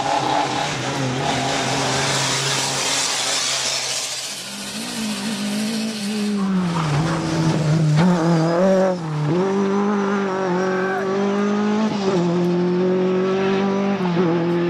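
Rally car at speed on a stage: a rush of tyre and road noise for the first few seconds, then the engine revving hard, its pitch dropping and climbing again several times through lifts and gear changes.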